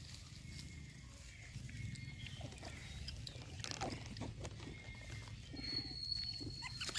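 Monkeys giving short, scattered calls and grunts over a low steady background rumble; a steady high-pitched tone comes in near the end.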